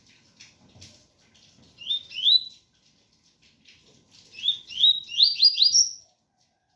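Double-collared seedeater (coleiro) singing its 'tui-tui' song: two quick rising whistled notes, then a run of five rising notes ending on a higher one. Faint patter of rain runs underneath.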